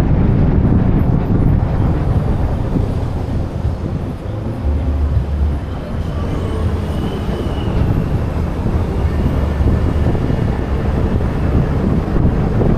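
Steady low rumble of a car on the move, with road and wind noise.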